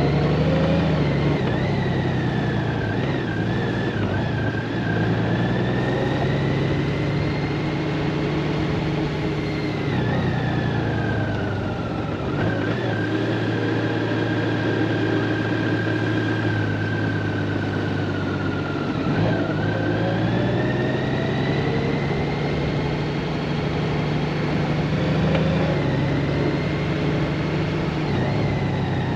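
Honda Gold Wing DCT's flat-six engine running under way, its note rising and falling several times as the bike changes speed and gears, over steady road and wind noise.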